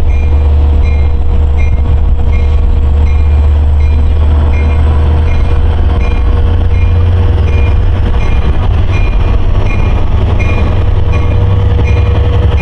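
Long Island Rail Road train running, a loud steady low rumble with a faint high whine that slowly rises in pitch. A short ringing sound repeats about twice a second throughout.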